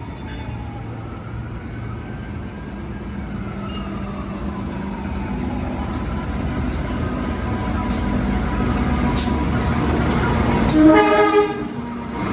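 Diesel-hauled express passenger train approaching, growing steadily louder, with sharp clicks and one short locomotive horn blast about eleven seconds in.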